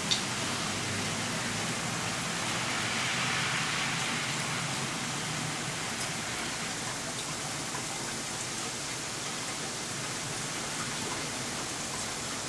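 Steady hiss of heavy winter precipitation falling, swelling slightly about three to four seconds in, with a single short click right at the start.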